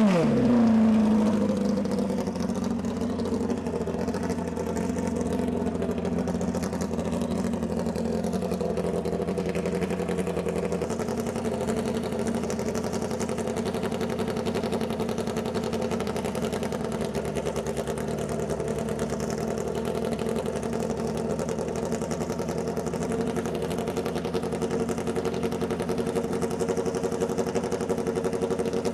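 Drag racing motorcycle engine dropping from high revs as the burnout ends in the first second, then idling steadily.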